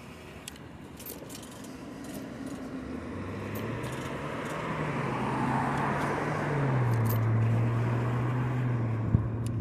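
A motor vehicle approaching and passing close by on the road: tyre and engine noise grows steadily louder, and its hum drops in pitch about seven seconds in as it goes by.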